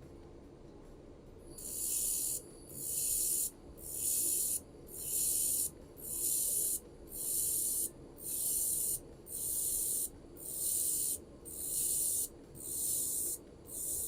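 Handheld laser welder working on aluminium with aluminium filler wire, a high hiss that comes in about a dozen regular bursts of roughly a second each, with short gaps between them.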